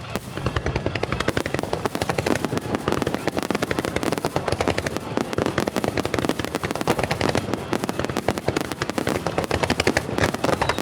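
Fireworks going off in a dense, rapid barrage: many sharp bangs and crackles a second, overlapping without a break.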